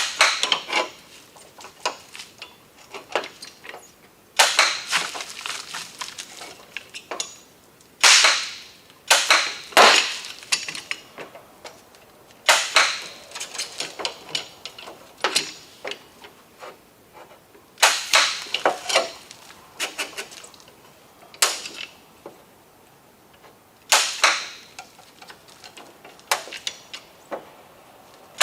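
Dent puller on a dented steel car door panel: a series of sharp metallic knocks, some single and some in quick pairs or clusters, every few seconds, as the dent is pulled out.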